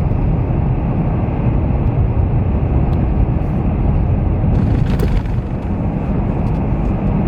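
Steady low rumble of a car driving on winter roads, tyre and wind noise heard from inside the cabin, with a brief hiss about five seconds in.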